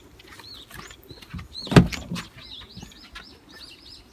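Small birds chirping over and over, short quick arched notes. About two seconds in comes a single loud clunk.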